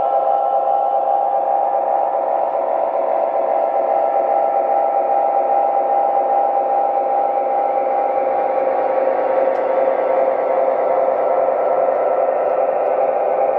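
Lionel O gauge model diesel train running on the track: a steady drone with a few held tones, from the locomotive's motor, its diesel sound system and the wheels on the rails.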